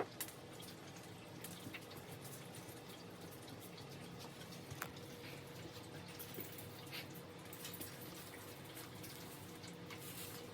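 Faint, scattered light clicks and taps, a few seconds apart, over a faint steady hum: an African grey parrot working at a foraging toy stuffed with pistachios.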